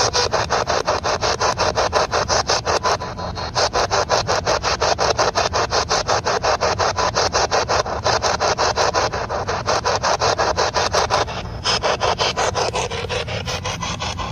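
Spirit box sweeping through radio stations: rapid, evenly spaced pulses of static, several a second, with a brief drop-out about eleven seconds in.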